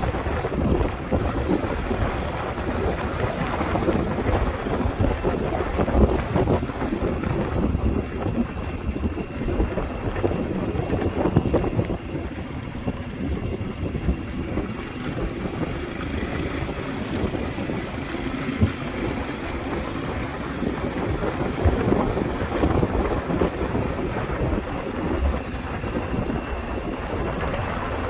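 Wind buffeting the microphone on a moving motorbike, a steady rough rumble with uneven gusts, over the bike's running and road noise.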